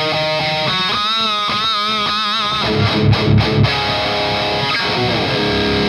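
Electric guitar driven through a Skull Driver V2 Evolution overdrive pedal, playing distorted lead notes with wide vibrato, then a burst of low palm-muted chugs about halfway through, then held, ringing notes.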